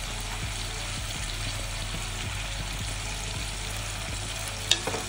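Cut jackfruit pieces frying in oil in a kadhai: a steady, even sizzle. A brief click sounds near the end.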